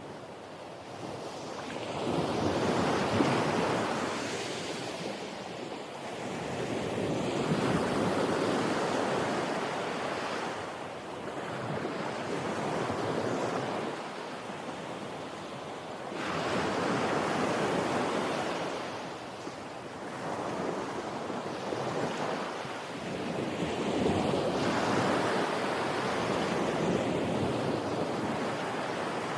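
Sea waves breaking on the shore. The surf rises and falls in a swell about every four to five seconds.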